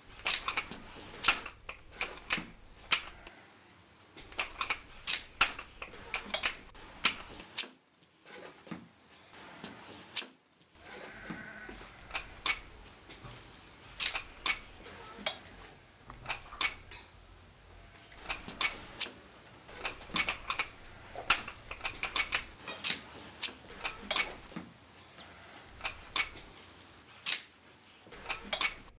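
Metal weight plates on dumbbells and barbells clinking and knocking together again and again at an irregular pace, each clink ringing briefly.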